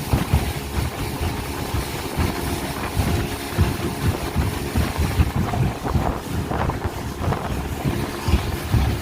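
Speedboat engine running under way, with wind buffeting the microphone in irregular low gusts.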